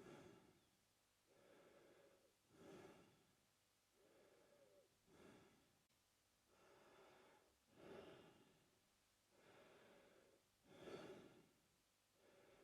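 A man breathing through his mouth, faint and slow. Steady in-and-out breaths come in a regular rhythm: a longer, even breath alternates with a shorter, sharper one, about one full breath every two and a half to three seconds.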